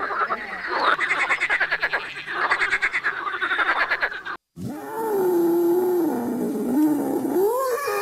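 A toad croaking in rapid pulsing trills. After a short break about four and a half seconds in, a long drawn-out wavering call follows, its pitch sagging and then rising near the end.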